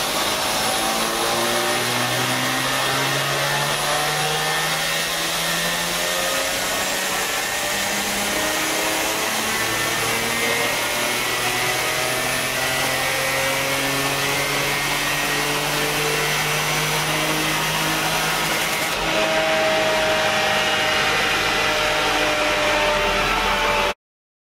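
Lexus IS200's two-litre straight-six pulling at full throttle under dyno load, boosted by a TorqAmp electric supercharger, its pitch rising steadily as the revs climb from about 2000 to over 5000 rpm. The sound cuts off suddenly near the end.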